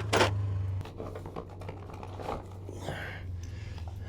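Small objects being handled and rummaged through: quick, irregular clicks and light rattles. A low steady hum stops about a second in.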